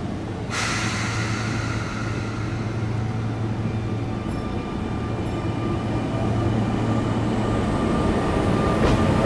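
Sotetsu Line electric train drawing nearer and growing steadily louder, its running rumble carrying several steady whining tones.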